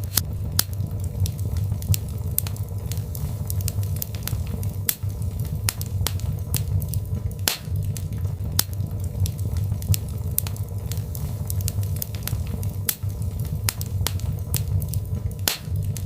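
Birch logs burning in a fireplace: a steady low rumble of flame under frequent, irregular sharp crackles and pops.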